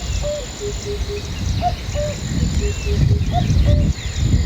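Outdoor ambience: a bird repeats a short falling phrase, two notes then three lower even ones, about every 1.7 seconds, while insects buzz high in stretches of about a second. Under it runs a loud low rumbling noise.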